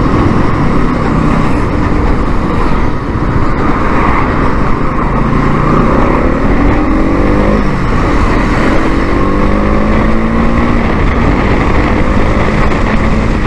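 Motorcycle riding at highway speed: a steady rush of wind noise with the engine running under it, its pitch rising several times as the bike accelerates.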